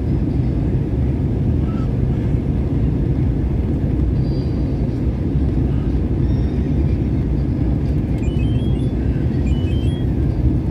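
Steady low rumble of airliner cabin noise, heard from inside the passenger cabin as engine and airflow sound. Faint short high notes step upward twice near the end.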